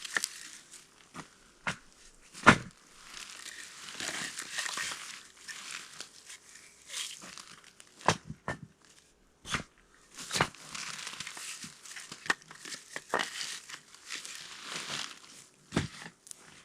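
Crinkly rustling, with irregular sharp clicks and knocks; the loudest is a single knock about two and a half seconds in.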